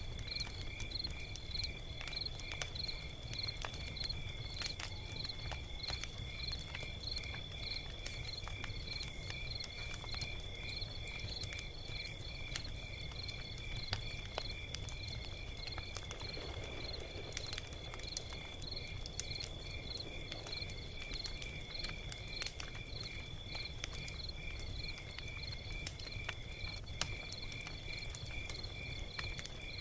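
Log fire crackling, with a steady low rumble and scattered sharp pops. Over it runs a steady high chirping that pulses evenly, about twice a second.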